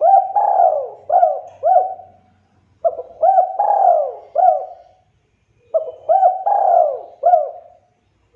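Spotted dove (tekukur) cooing in full song: three phrases of several hoarse, arching coos, each phrase lasting about two seconds and coming roughly every three seconds.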